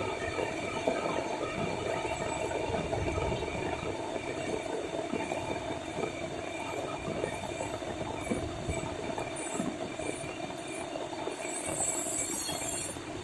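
Heavy tropical rain pouring down in a steady downpour, a dense hiss of countless drops with a faint hiss up high near the end.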